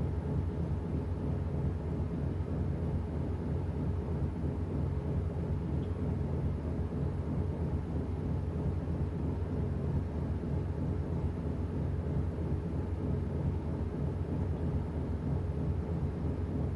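Washing machine running: a steady low mechanical hum with no breaks or changes.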